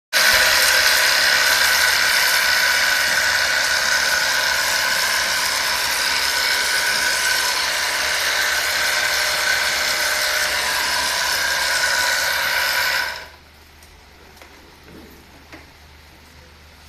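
Loud, steady machine noise with a high whine from a motor-driven tool, cutting off suddenly about thirteen seconds in, leaving a quiet background with a few faint ticks.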